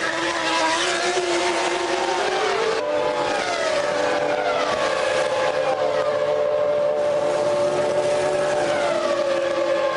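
Formula One V10 racing engines: one rises in pitch over the first few seconds as it accelerates, then other cars go past one after another, each falling in pitch.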